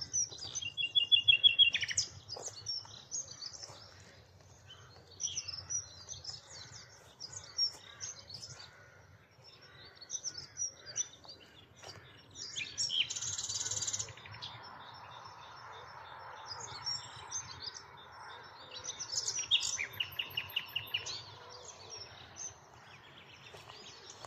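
Common nightingale in full song: phrases of fast repeated notes, one near the start and another about twenty seconds in, and a loud harsh burst around thirteen seconds, with other songbirds singing around it.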